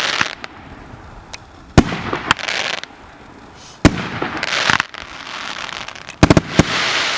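Firework cake battery firing its shots one after another, each a sharp bang followed by a spell of crackling. The shots come about every two seconds, with a quick cluster of bangs near the end.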